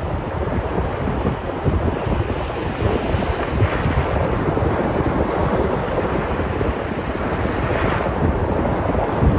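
Sea surf breaking on the shore: a continuous rush of waves, swelling as waves wash in about four seconds in and again near eight seconds. Wind buffets the microphone throughout as a low rumble.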